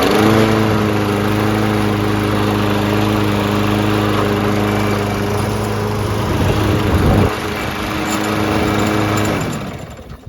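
Lawn Boy 20-inch self-propelled mower's small engine running steadily after starting, just after a carburettor cleaning and a new air filter, then shutting off near the end, its pitch falling as it spins down.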